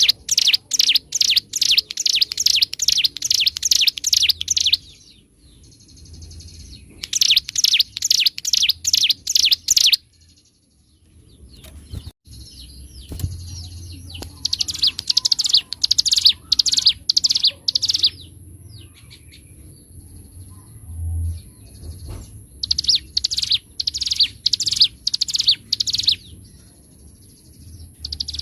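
Ciblek gunung, a mountain prinia, singing in a lively, continuous 'gacor' manner: four phrases of about three to five seconds each, each made of rapid, repeated sharp high notes, with short pauses between them.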